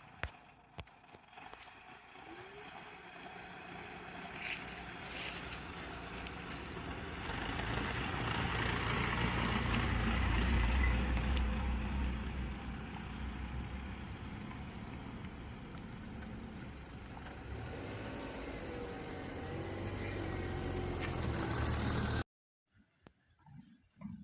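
Tata Punch compact SUV on the move: engine and tyre rumble that builds up over the first several seconds, peaks, then runs steadily before cutting off suddenly near the end. A few sharp clicks come right at the start.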